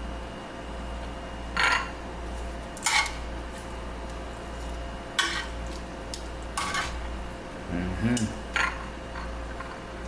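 Kitchen dishes and utensils clinking and clattering in about six short knocks, over a steady low hum.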